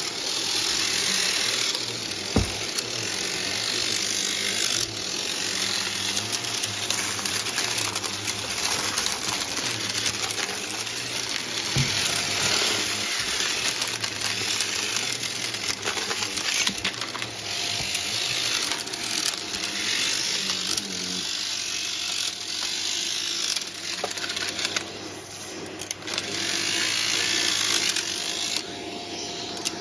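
Numatic Hetty cylinder vacuum cleaner running, sucking up a mess of dry debris through its hose and metal attachments, with many small bits clicking and rattling as they are pulled in.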